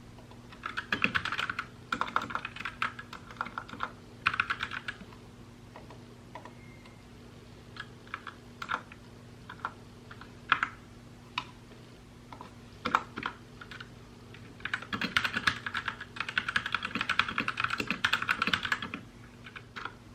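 Mechanical keyboard being typed on: quick bursts of keystrokes near the start, scattered single key presses in the middle, and a long run of fast typing in the second half. A faint steady low hum sits underneath.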